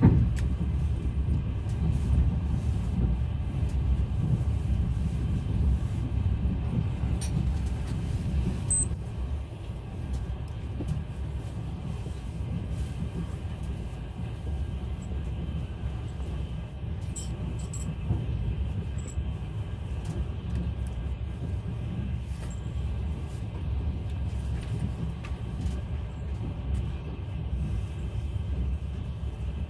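Steady low rumble of a moving passenger train running along the rails, easing slightly about nine seconds in.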